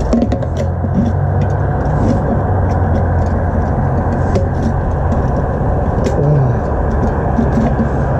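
Go-kart's small engine running steadily under way, a constant low hum with scattered clicks and rattles over it.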